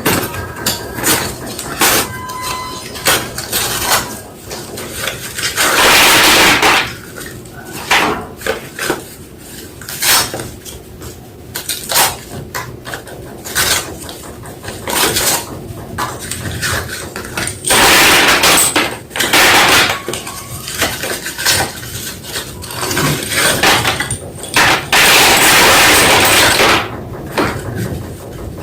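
White school chalk being crunched: many sharp snaps and clicks, with longer spells of gritty crunching of a second or two, the loudest about six, eighteen and twenty-five seconds in.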